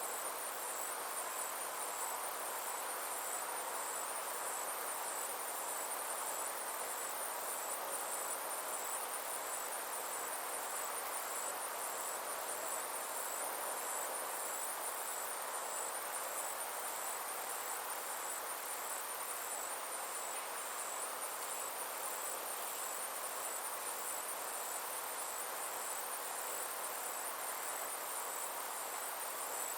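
Insects trilling steadily in a high, fast, even pulse that runs on without a break, over a soft, even background hiss of outdoor ambience.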